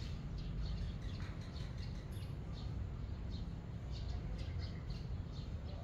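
Small birds chirping: many short, high calls scattered throughout, over a steady low background rumble.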